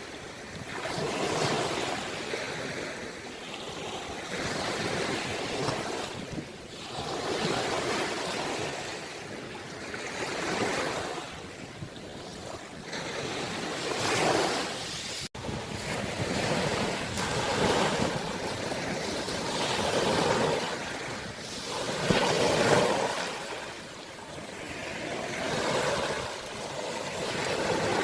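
Ocean waves surging and breaking in repeated swells every two to three seconds. The sound briefly cuts out about halfway through.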